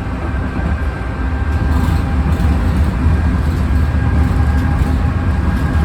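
Inside a moving PATCO Speedline rapid-transit car: a steady low rumble of the train running on the rails, with a faint even whine over it.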